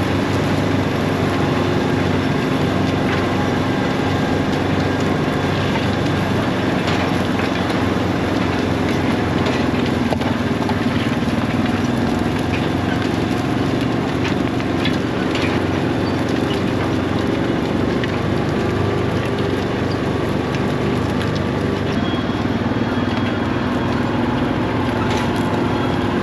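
New Holland tractor's diesel engine running steadily while pulling an anhydrous ammonia toolbar across the field, with a few light rattles.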